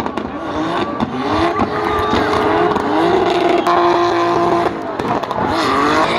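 Drift car engine revving hard in repeated rising surges as the car slides sideways, held at a steady high pitch for about a second and a half midway, over the noise of the spinning tyres.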